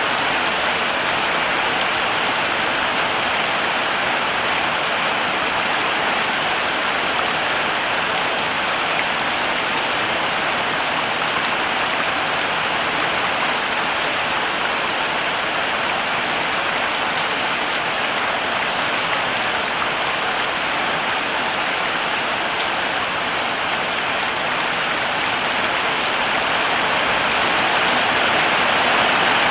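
Heavy rain falling steadily, a dense even hiss of drops with fine pattering.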